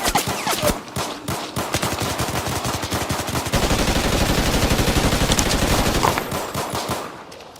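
Gunfire: scattered shots at first, then about halfway through a sustained burst of rapid automatic fire lasting two to three seconds, which thins out to scattered shots near the end.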